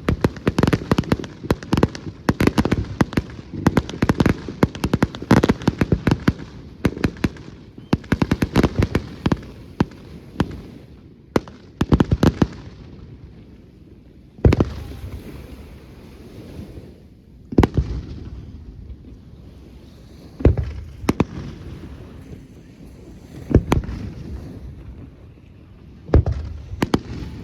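Fireworks display: a rapid barrage of shell bursts and crackles for about the first ten seconds, then single loud aerial shell bangs every three seconds or so, each echoing away.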